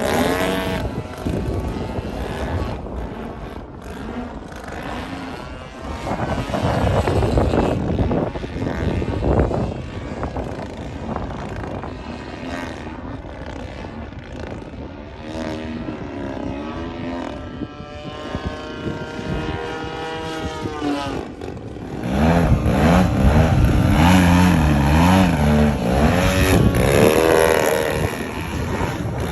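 Radio-controlled model airplane's engine and propeller running in flight, its pitch rising and falling as it passes, and growing louder for several seconds near the end.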